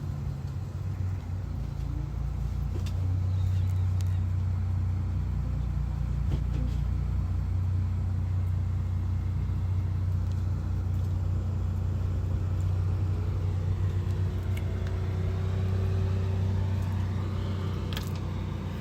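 Steady low rumble of a running motor vehicle engine, a little louder from about three seconds in until near the end.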